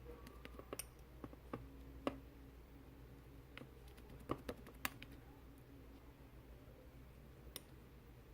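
Faint, irregular sticky clicks and small pops of slime being pressed and poked by hand, with a few sharper clicks about two seconds in and again between four and five seconds in.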